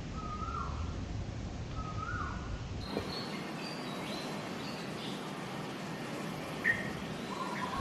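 Birds calling over a steady background hiss: a short whistled note with a dropping tail repeated three times at the start, then higher, thinner chirps and one sharp chirp near the end.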